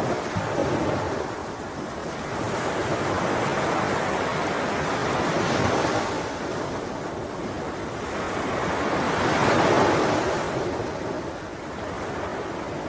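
Sea waves breaking and washing up on a shore, the surf swelling and ebbing in slow surges, the strongest swell about ten seconds in.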